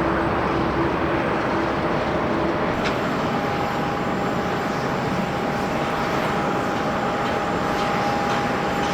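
Jet airliner engines on landing approach, a steady loud rush of engine noise. A cut about three seconds in brings a JAL Boeing 737-800, its CFM56 turbofans adding a steady whine over the rush.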